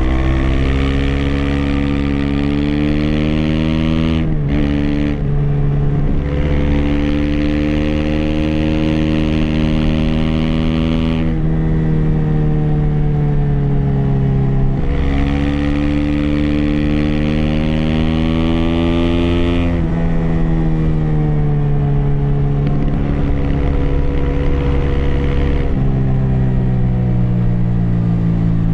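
Aprilia SX 125's single-cylinder four-stroke engine through an Arrow Thunder slip-on exhaust and racing header, pulling under load. The revs climb steadily and drop back sharply four times as the rider shifts gears.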